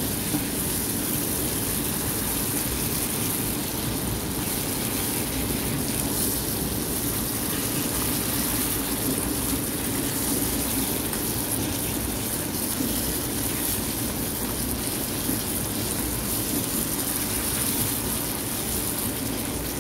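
Sliced mushrooms, onion and garlic sizzling steadily in butter in a frying pan, with a faint low hum under it.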